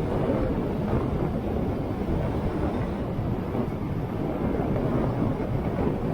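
Motorcycle being ridden: wind rushing over the microphone together with steady engine and road noise.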